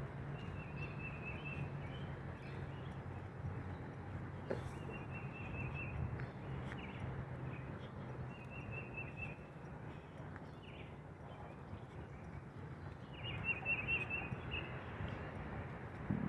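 A bird singing a short, high, rapid trill, repeated about every four seconds, over a steady low background rumble.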